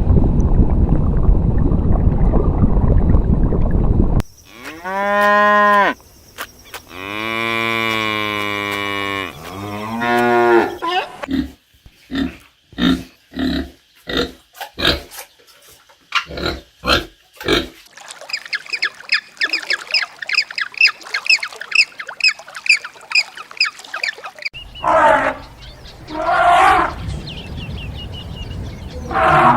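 A string of different animal calls played back to back. A dense, rough low noise runs for the first four seconds, then a cow moos several times in long drawn-out calls, followed by a run of short, evenly spaced calls, a fast high chirping, and further calls near the end.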